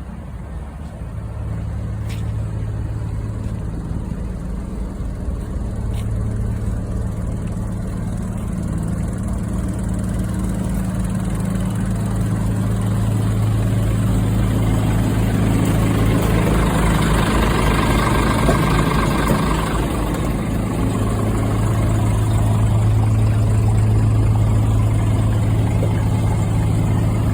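Scania diesel engine running steadily, its low hum gradually getting louder, with a spell of added rushing noise for a few seconds about two-thirds of the way through.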